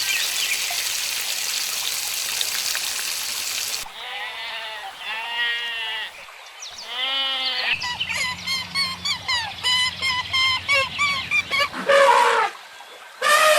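A rushing noise for about four seconds, then two wavering bleat-like animal calls, then a quick run of short high chirps, and a loud animal call starting just before the end.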